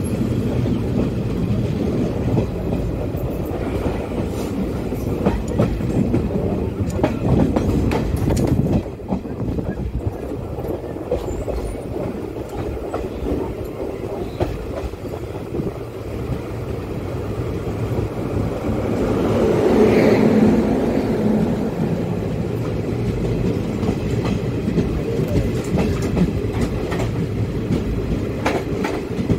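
Train running noise heard from the open door of a moving passenger coach: steady rumble and clickety-clack of wheels on the rails. About twenty seconds in it swells as an oncoming freight train, hauled by two WAG-9H electric locomotives and made up of BOBYN wagons, passes on the next track.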